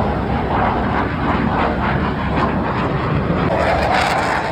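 Airplane engine noise as an aircraft flies past, a steady, loud rush of sound.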